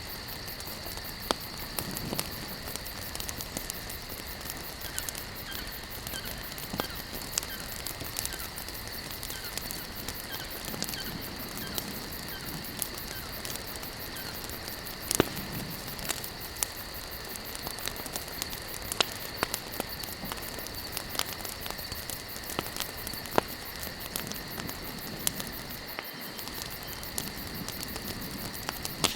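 Wood campfire burning, crackling with irregular sharp pops a few times every second or two, over a steady high-pitched chirring of insects.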